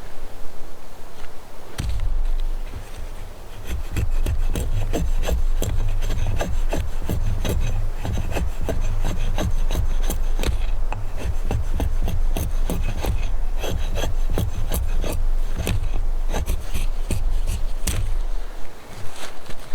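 Wood being worked by hand with a tool: a fast, uneven run of rasping strokes that starts a couple of seconds in and stops near the end.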